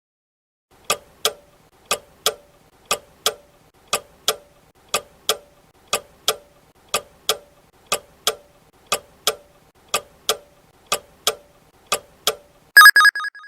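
Countdown-timer sound effect: clock ticking in tick-tock pairs, one pair a second for about twelve seconds, ending in a short loud bell-like ring as time runs out.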